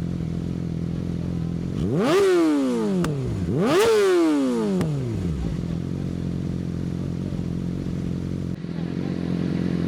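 Yamaha R6 with an Akrapovic exhaust idling, blipped twice near the start: each rev rises sharply in pitch and falls back to idle. It settles into a steady idle for the rest.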